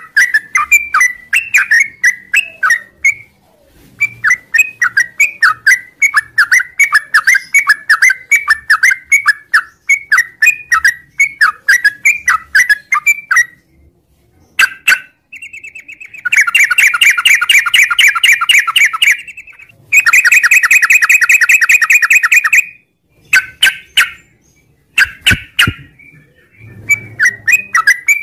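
Yellow-vented bulbul (trucukan) singing its long, rapid chattering song: quick runs of short, bubbly chirps, with a short pause near the start and one about halfway. Two dense, fast trills of about three seconds each follow, then brief bursts of chirps near the end.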